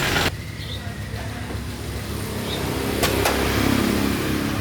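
Truck engine running with a low, steady rumble. A louder noise cuts off suddenly just after the start, and two sharp clicks come about three seconds in.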